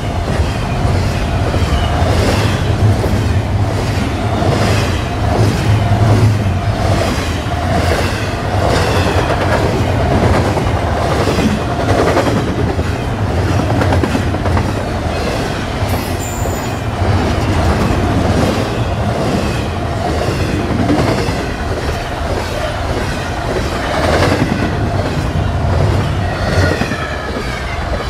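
Canadian National freight train's double-stack container cars rolling past, steel wheels clacking rhythmically over the rail joints over a steady low rumble. A brief high-pitched squeal is heard about halfway through.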